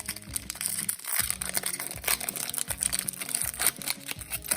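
Foil Pokémon booster pack wrapper crinkling as it is handled and torn open, with background music playing.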